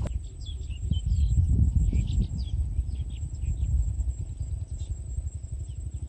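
Small birds chirping in many short calls over a steady low rumble.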